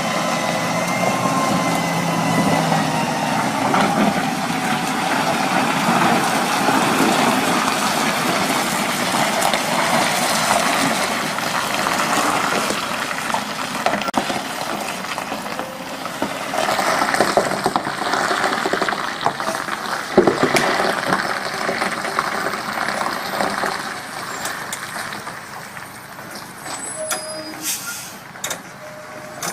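Heavy truck running, with steady mechanical and road noise that quietens over the last few seconds, when a few sharp clicks are heard.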